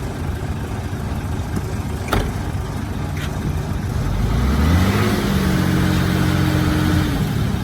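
Heavy diesel engine of earthmoving equipment running, then revving up about halfway through and holding a higher, steady note under load before easing off near the end. There is a single sharp knock about two seconds in.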